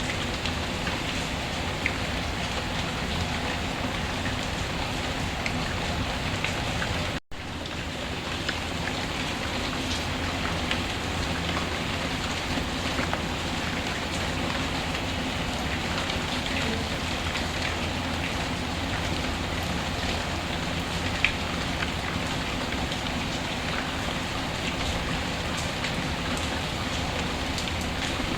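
Steady rainfall mixed with the scattered pops of a crackling wood fire. The sound drops out completely for a split second about seven seconds in, then resumes.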